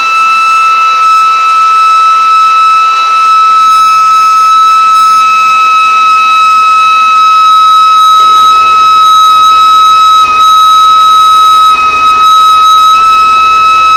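A loud, steady high-pitched whine held on one pitch, dipping briefly about ten seconds in and again near the end, with a low rumble joining about halfway through.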